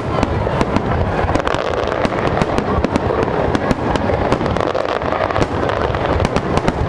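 Aerial fireworks in a dense barrage: many shells bursting at once, a continuous low rumble with rapid sharp bangs and crackles throughout.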